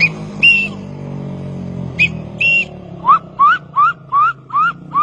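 A man whistling a bird-call imitation: two short high whistles, each followed by a held note, then from about three seconds in a quick run of rising whistled notes, about three a second. A steady low hum runs underneath.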